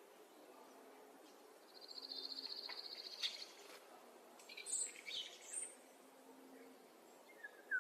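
Wild songbirds calling. A fast, high trill lasts about a second and a half, then a few short, high chirps follow, with a lower call near the end. Faint, low, repeated notes sound underneath.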